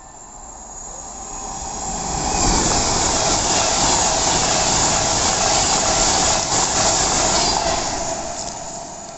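A passenger train passing at speed on the rails: the rush of wheels and air builds over about two seconds, holds loud for about five seconds, then fades away.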